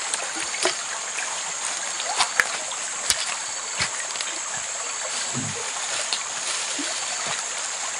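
Steady running river water with scattered small splashes and sharp knocks, made as fish are worked out of a net at the water's edge.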